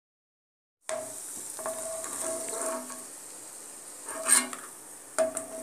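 Cashews and raisins sizzling in hot ghee in a kadai, with a spatula stirring and scraping the pan. The sound starts about a second in, after a silent gap. A sharp metal clatter about four seconds in, and another near the end, as the fried nuts are scooped onto a steel plate.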